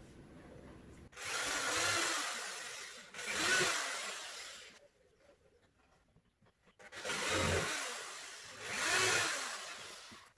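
Power drill boring pilot holes up into the underside of a tabletop: four runs of a couple of seconds each, in two pairs with a short pause between the pairs.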